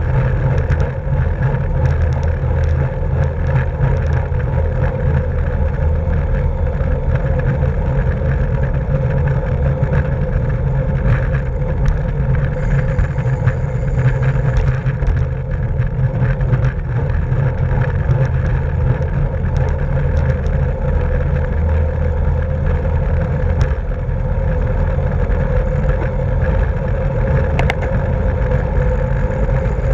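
Steady wind rushing over the microphone of a camera riding along on a racing bicycle, a constant low rumble with road noise underneath.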